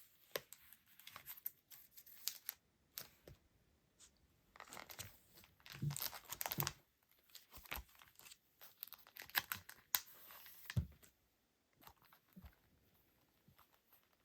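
Packaging being handled and torn open, with irregular crinkling, rustling and tearing in bursts that thin out near the end.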